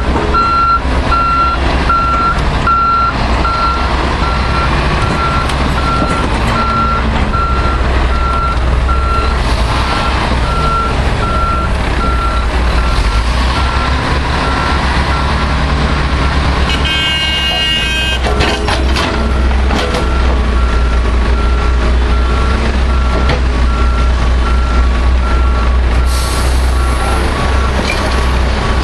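A dump truck's reversing alarm beeps in a steady repeating pattern over the low running of heavy diesel engines. About two-thirds of the way through there is a short, loud pitched blast followed by a few clicks, and then the beeping goes on.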